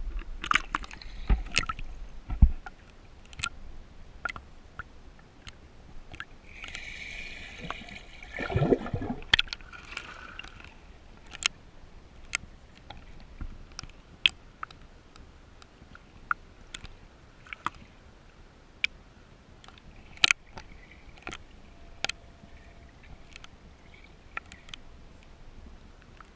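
Black swans dabbling in shallow pond water: sloshing and gurgling with many short, sharp bill clicks scattered throughout. A single call with several stacked tones comes about seven seconds in, followed by a brief splash.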